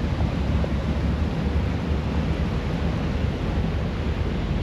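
Steady rush of wind buffeting the microphone and water noise from a jet boat on the river, with no distinct events.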